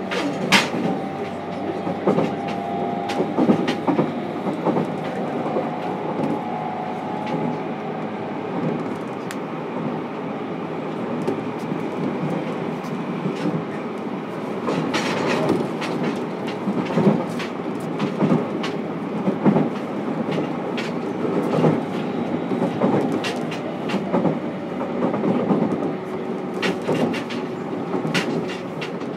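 Running sound heard inside the motor car (MoHa 303-1) of a JR Kyushu 303 series electric train: a steady rolling rumble with irregular clacks of the wheels over rail joints. In the first several seconds a faint steady whine runs under it.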